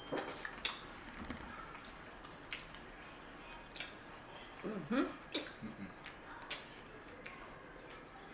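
People speed-eating ice cream sandwiches: scattered wet mouth smacks and clicks of chewing, with a short muffled vocal sound about five seconds in.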